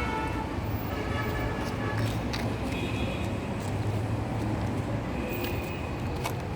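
A steady low rumble of outdoor background noise at an even level, with a few faint short high tones and light clicks over it.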